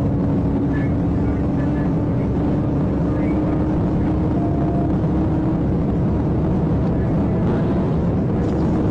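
Steady engine drone with an unchanging low hum.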